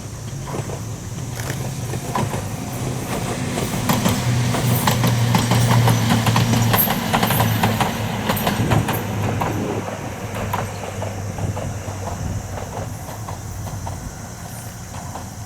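Ohmi Railway 800-series electric train passing, its wheels clicking over the rail joints under a steady low hum. It grows loudest about halfway through, then fades as it moves away.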